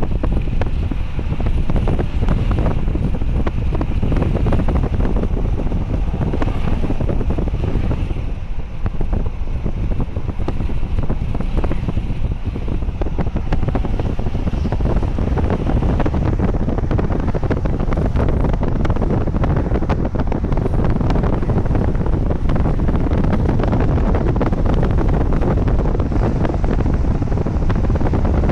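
Union Pacific double-stack intermodal freight train passing: a steady rumble with many quick clicks of wheels on the rails. Heavy wind buffets the microphone throughout.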